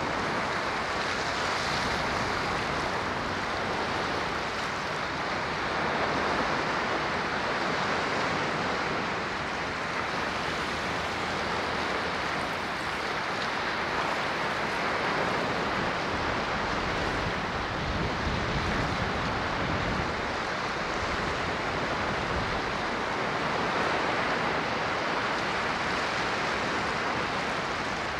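Ocean waves breaking and washing on a shore, a continuous rushing surf that swells and eases gently every few seconds.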